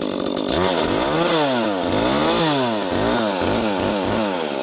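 Small 30cc Echo chainsaw cutting through a red oak round at full throttle, its engine pitch rising and falling over and over as the chain bites and frees in the wood.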